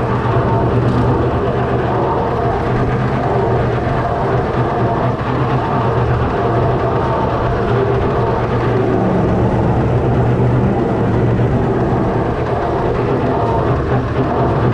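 Fordson Major tractor's six-cylinder Perkins diesel engine running at a steady speed under load, driving a PTO slasher cutting grass.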